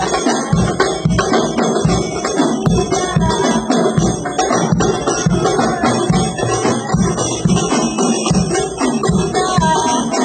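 A hadroh ensemble of Indonesian frame drums (rebana) playing a fast, busy rhythm, with deep bass strokes several times a second under a steady jingling. The new instruments are being played through as a sound check.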